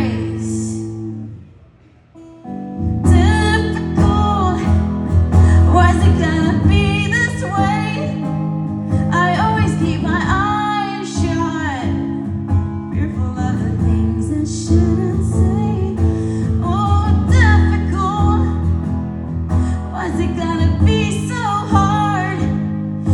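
Live solo performance of an original song: a woman singing over guitar. The music drops away briefly about two seconds in, then voice and guitar come back in full.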